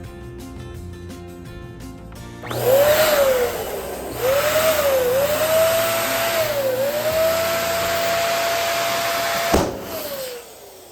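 Electric balloon pump inflating a balloon: a loud steady rush of air with a motor whine that rises and dips. Near the end comes a sharp crack, and the whine falls away as the pump winds down. Quiet background music plays before the pump starts.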